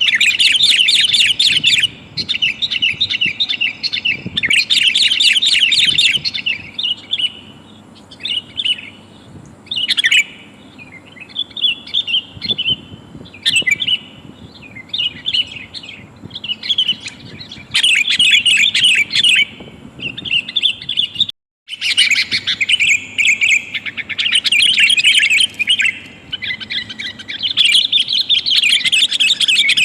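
Sooty-headed bulbul (kutilang) calling: rapid, bright chattering notes in repeated bursts, billed as a female calling to a male and used as a lure call. The sound drops out completely for an instant about 21 seconds in.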